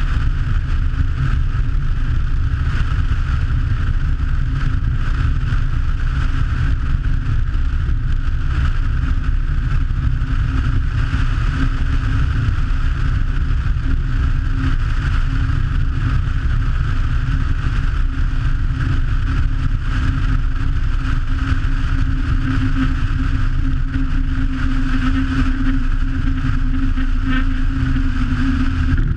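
Che-22 Korvet twin-engine amphibian's engines running steadily: a constant drone with one steady tone that grows a little stronger near the end, over a heavy low rumble.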